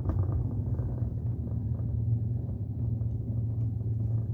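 Vehicle engine and road noise heard from inside the cab while driving along at a steady speed: a steady low hum.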